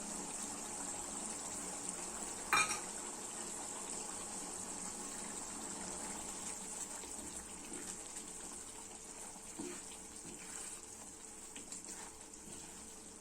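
Chicken gravy simmering in a pan, a steady low bubbling hiss, with one sharp knock of a utensil against the pan about two and a half seconds in and a few light taps later.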